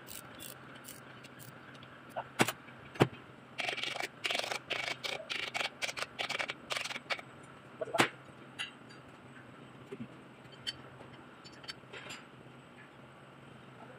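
Sharp clicks and knocks of metal tools and engine parts being handled during an engine overhaul. Two knocks come about two and three seconds in, then a quick run of clicking from about four to seven seconds, then a single loud click and a few faint ticks.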